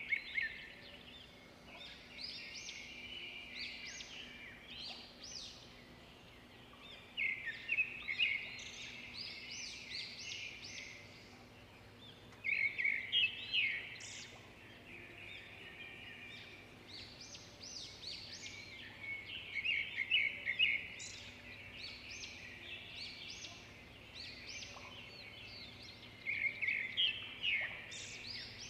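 Songbirds singing: a loud phrase of rapid chirping notes comes back about every six seconds, with quieter chirps and calls in between.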